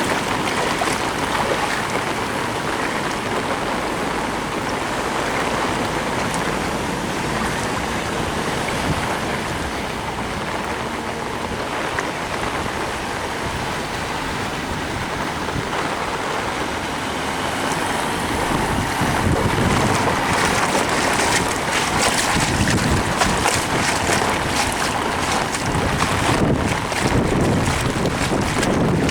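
Torrential rain beating down and a car's tyres hissing and sloshing through flood water on the road, a steady wash of water noise that grows louder and rougher, with a deeper rumble, about two-thirds of the way through.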